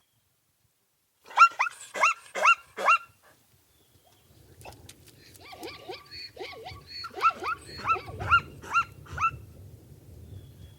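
A dog barking in high-pitched yelps: four sharp barks in quick succession about a second in, then a longer run of barks over background noise in the second half.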